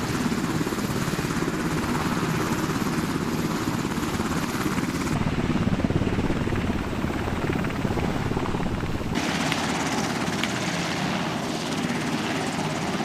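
Steady loud rumble of a helicopter's engine and rotors, its tone shifting about five and nine seconds in.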